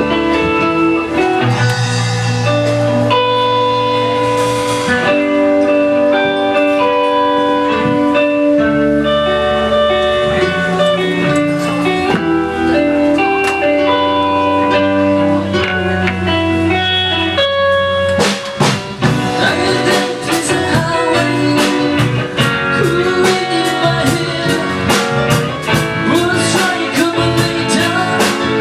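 A band playing a blues-style number: held guitar notes at first, then the drum kit comes in with a steady beat about 18 seconds in.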